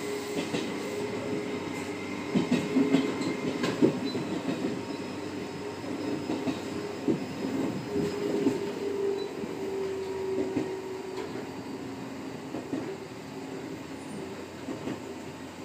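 Electric train running along the line, heard from inside the driver's cab: a steady hum over wheel-and-rail rumble, with a cluster of clicks over the rails about two to four seconds in.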